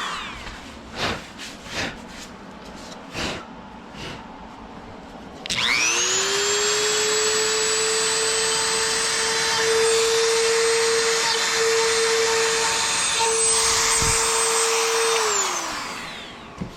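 Dremel rotary tool: it winds down at the start, a few light knocks follow, then about five seconds in it spins up with a rising whine, runs steadily for about ten seconds and winds down again near the end.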